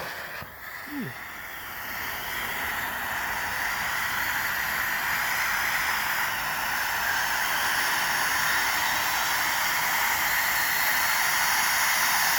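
Megabanger Daybreaker firework fountain spraying sparks with a steady hiss. The hiss starts about a second in and grows louder as the fountain builds.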